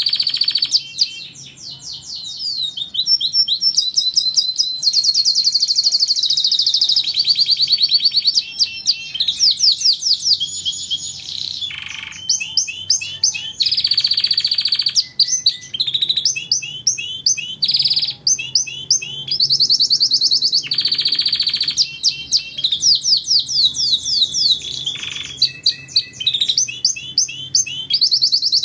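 Domestic canary singing a long continuous song of rapid trills and rolled, repeated notes, broken only by brief pauses.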